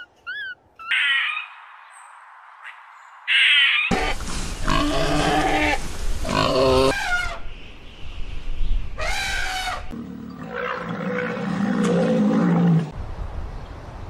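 A string of wild animal calls. Short high chirps at the start and two brief high calls, then about three seconds of loud, harsh calls. A single piercing call comes about nine seconds in, followed by a lower, longer call lasting a few seconds.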